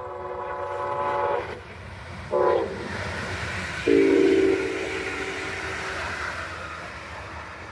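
A Brightline passenger train sounds its horn as it approaches and passes at speed: a long chord blast, a short blast, then a long, louder blast that sounds lower in pitch once the train is going by. Under the horn the train rushes past and fades away near the end.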